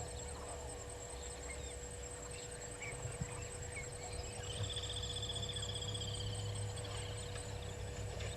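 Natural bush ambience: scattered short bird chirps, with a buzzy trill lasting about three seconds starting near the middle, over a steady low hum that grows louder partway through.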